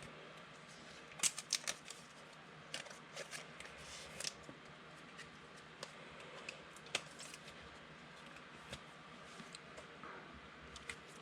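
Faint handling of trading cards: scattered light clicks and slides of card stock, with a quick cluster about a second in and another around three to four seconds.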